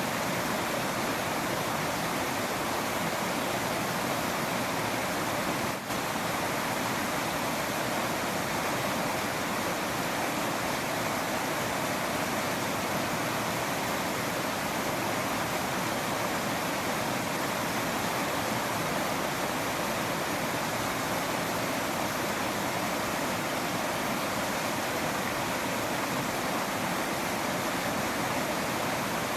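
Waterfall: falling water rushing steadily as an even wash of noise, with a momentary drop in level about six seconds in.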